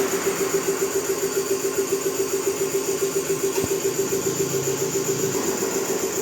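A small engine or motor-driven machine running steadily, with an even pulse of about five or six beats a second. There is a single click about halfway through.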